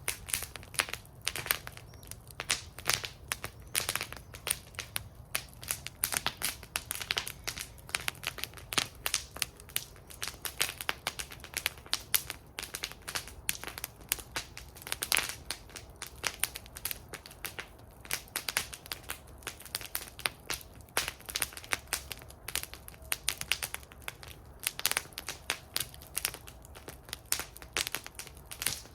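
Wood fire burning in a metal fire bowl, crackling and popping irregularly and continuously over a low steady rumble of the flames.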